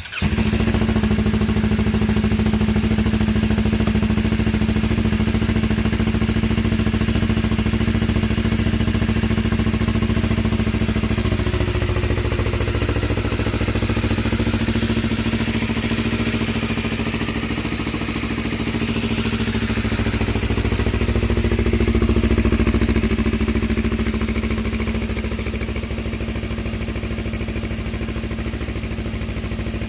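Yamaha MT-25/R25 parallel-twin engine catching at the start and idling through an aftermarket Protech exhaust header, with a couple of gentle rises in revs partway through. Near the end it settles to a quieter idle.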